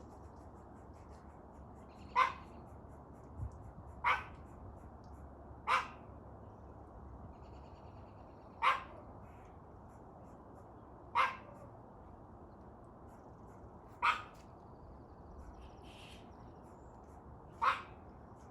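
A dog barking single, sharp barks, seven of them at uneven intervals of one and a half to three and a half seconds.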